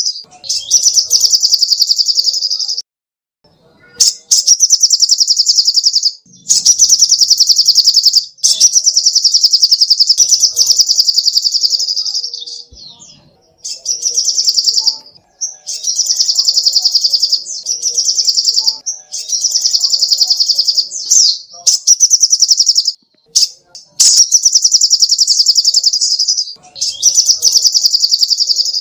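Sogok ontong (little spiderhunter) singing: long, fast trills of high, sharp repeated notes, each run lasting a couple of seconds, with short pauses between runs.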